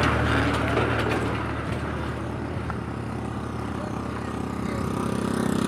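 A motor vehicle's engine running steadily with a low hum. It eases off slightly, then grows louder again near the end.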